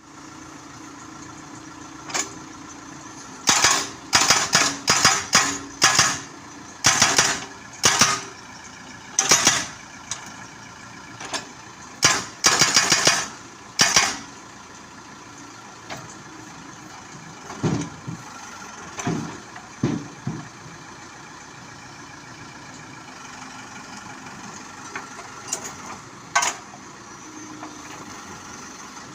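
Hydraulic rock breaker on a Case 580 backhoe hammering in a series of short, loud bursts over the steady running of the backhoe's diesel engine, after which the engine keeps running with a few lower surges. The breaker is being test-run after a repair.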